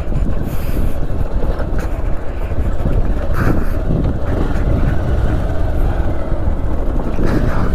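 Motorcycle riding on a gravel road: a steady low rumble of engine and road noise.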